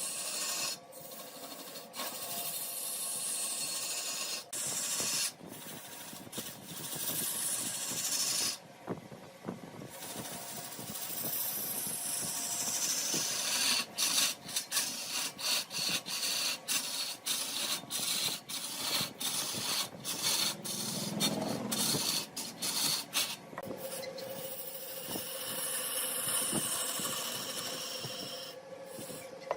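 Mahogany turning on a large wood lathe: the cutting tool scraping against the spinning wood with a steady hiss and hum. The sound breaks off sharply for an instant many times, most often in the second half.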